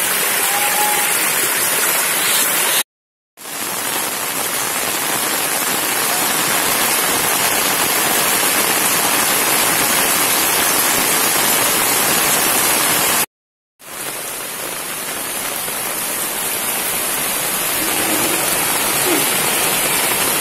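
Steady hiss of heavy rain and floodwater running across a flooded street. It cuts out to dead silence twice, for about half a second each time.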